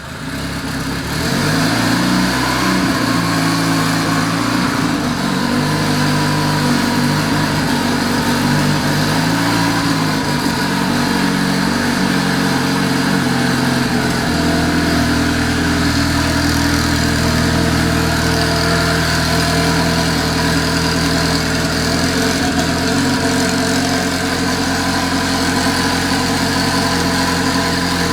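Honda B-series four-cylinder engine of an Acura Integra DC2 running, its revs rising and falling a few times in the first ten seconds or so, then settling to a steady run.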